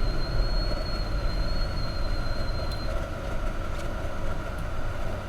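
Volvo 945's brakes squealing, a single steady high-pitched tone lasting about three seconds that stops abruptly, over the car's steady road and engine noise. The squeal is a sign the brakes need work.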